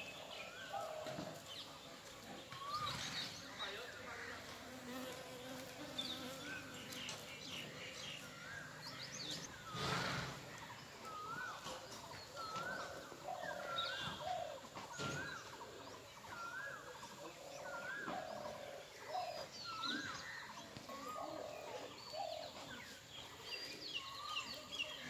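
Birds calling: one repeats a short rising call about once a second, with other birds chirping higher over it. A brief loud burst of noise comes about ten seconds in.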